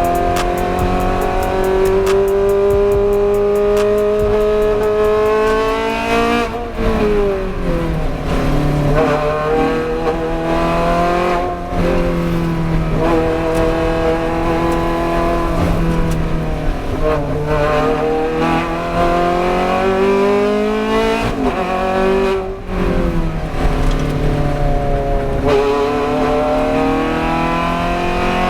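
Race car engine running hard on track: its pitch climbs steadily under acceleration and falls away sharply about five times, as the car shifts or brakes.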